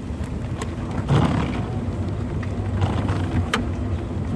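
Golf cart driving: a steady low running hum with scattered knocks and rattles, and one louder thump about a second in.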